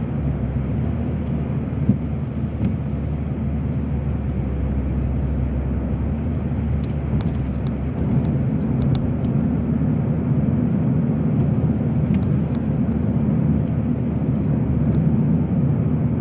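Car driving on a wet road, heard from inside the cabin: a steady low rumble of tyres and engine, a little louder from about eight seconds in, with a few faint clicks near the middle.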